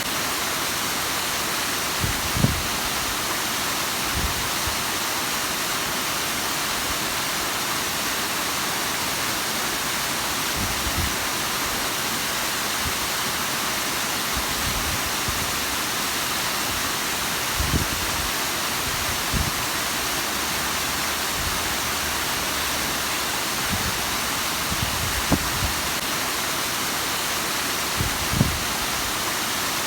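Bigăr waterfall: falling water making a steady, even rushing hiss, with a few brief low thumps here and there.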